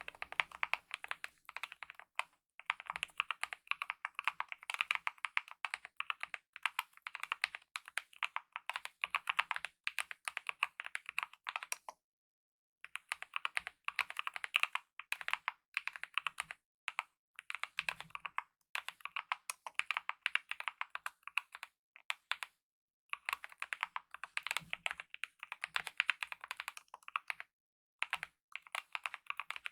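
Typing on a Kemove mechanical keyboard with lubed optical linear red switches and DSA-profile keycaps: rapid key strokes in runs, broken by short pauses, the longest about twelve seconds in.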